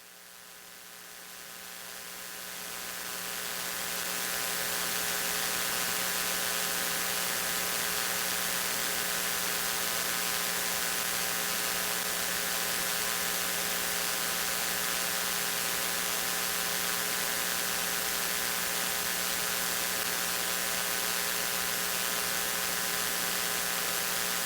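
Steady electrical hum and hiss, made of several held tones over an even hiss. It swells up over the first few seconds, then holds level until it cuts off suddenly at the end.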